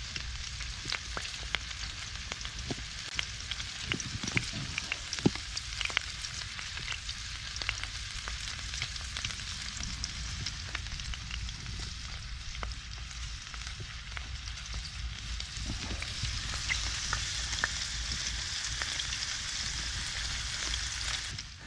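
Prawns sizzling as they fry in hot oil in an aluminium pan over a wood-fired stove, a steady hiss full of small pops and crackles. The sizzle grows a little stronger near the end, then cuts off suddenly.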